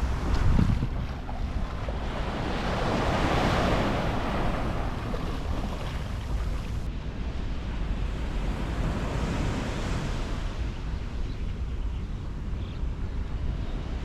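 Sea waves washing onto a beach, swelling loudest about three to four seconds in and again more softly around nine seconds, with wind buffeting the microphone.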